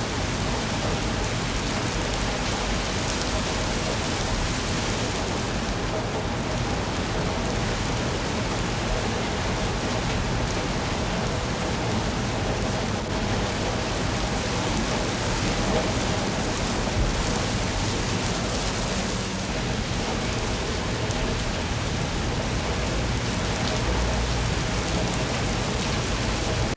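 Steady rain falling, an even continuous hiss of rain on surfaces.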